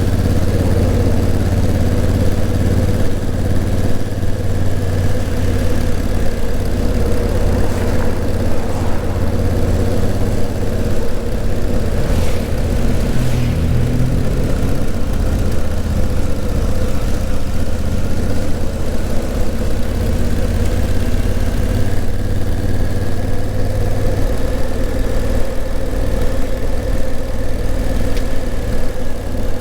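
Honda CRF1000L Africa Twin's parallel-twin engine running steadily on the move, its note shifting slightly about three-quarters of the way through.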